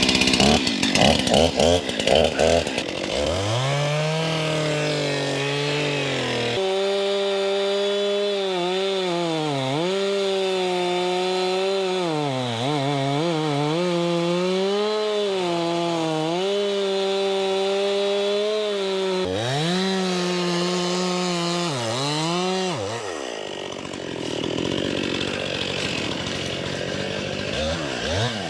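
Two-stroke chainsaw cutting into a white oak trunk to make the felling notch. The engine pitch repeatedly dips as the chain loads up in the wood and rises again as it frees, and it eases off near the end.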